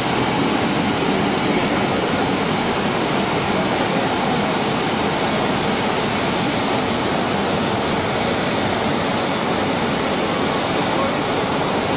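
Jet airliner engines running, a loud, steady rushing noise with no clear change in pitch.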